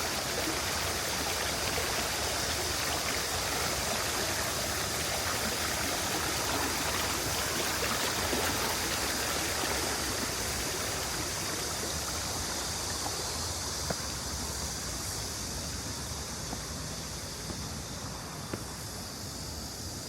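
Shallow city stream water rushing steadily over rocks and small drops, a dense, even rush that grows a little quieter in the second half.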